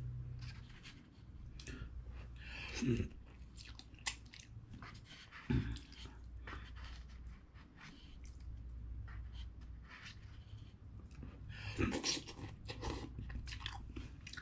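Close-up chewing of cup ramen noodles, with many short clicks of chopsticks working in the cup and three louder knocks. A steady low hum lies underneath.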